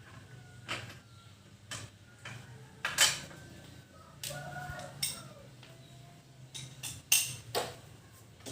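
Hand tools and metal parts clinking and knocking while a motorcycle exhaust is being taken off: a handful of sharp, irregular clanks with short ringing, the loudest about three and seven seconds in.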